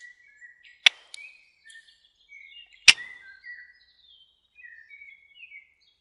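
Wild birds singing, a scatter of short high chirps and warbles, with two sharp knocks about one and three seconds in, the second the louder.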